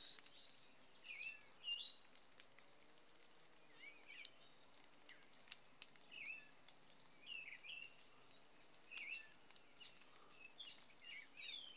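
Faint birds chirping over a quiet outdoor background: short, swooping calls repeated every second or so.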